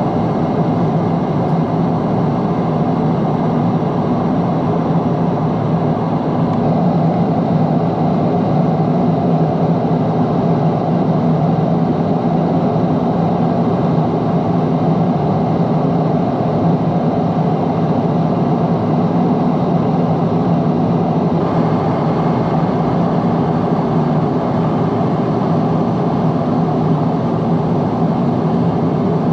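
Boeing 777-300 cabin noise heard from a window seat on approach: a steady rumble of engines and airflow with a low hum. About two-thirds of the way through, the higher hiss shifts slightly.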